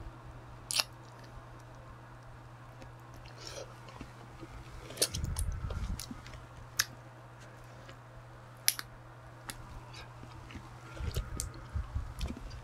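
Close-up chewing and biting of soy-marinated crab shell, with scattered sharp cracks as the thin shell is bitten through. A steady low hum runs underneath.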